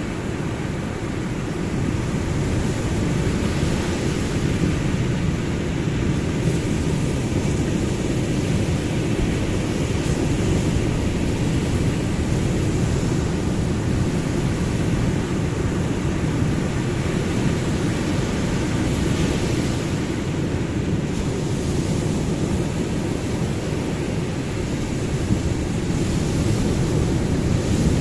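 Ocean surf: a steady low rumble of breaking waves that swells and eases gently in loudness.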